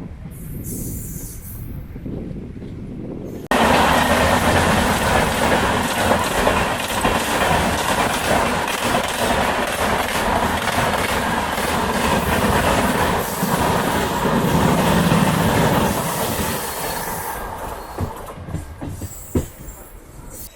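MEMU electric multiple-unit train running on the rails with loud, steady wheel-and-track noise. The noise jumps up suddenly about three and a half seconds in, stays loud, then fades over the last few seconds with a few sharp knocks.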